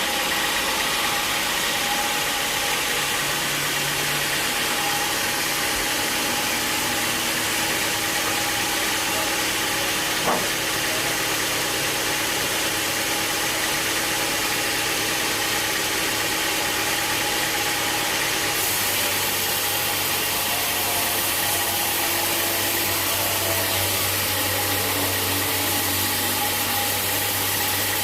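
Sawmill machinery running steadily with a constant engine hum and a hiss of noise, with a single brief knock about ten seconds in. The sound shifts slightly about eighteen seconds in.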